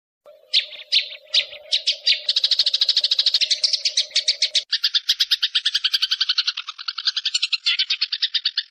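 A songbird's rapid chattering trill, as used to train caged songbirds: it starts with a few separate high chirps that speed up within about two seconds into a fast, steady rattle of repeated notes, with a low steady hum beneath the first half that cuts off about halfway through.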